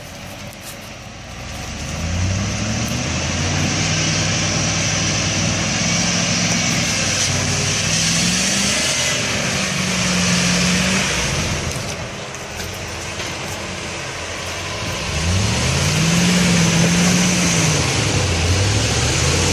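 4x4 vehicle's engine revving up and falling back several times under load, with a steady hiss, as it struggles to climb a muddy slope.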